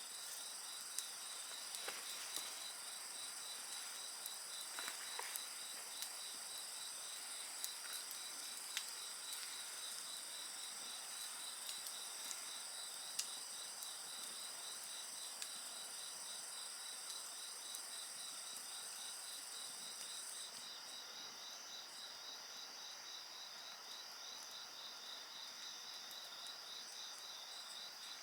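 A chorus of insects trilling and chirping in several steady high-pitched layers, one of them a rapid pulsing chirp; the highest layer drops out about two-thirds of the way through. Scattered sharp crackles and pops of a burning wood fire sound over it.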